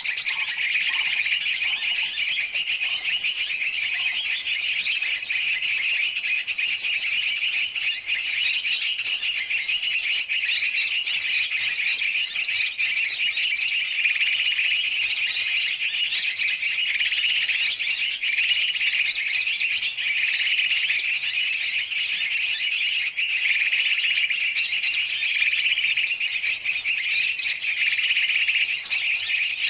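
Dense, busy chorus of many small birds chirping and chattering at once, with no pause. It is a bird-lure recording that mixes the calls of large and small birds to draw birds in.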